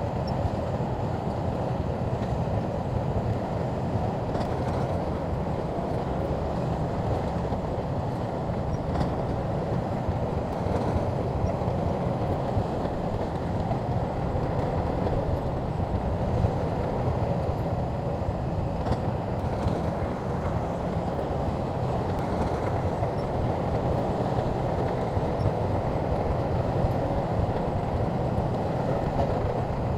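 SHANTUI crawler bulldozer running steadily as it works, a continuous low engine and machinery noise with a few faint clicks.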